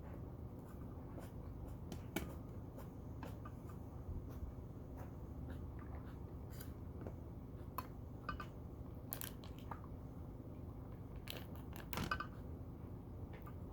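Close-up eating sounds: scattered small clicks, crunches and wet mouth noises of someone chewing, with a few sharper utensil or dish clicks, the loudest about two seconds in and a cluster near the end, over a steady low hum.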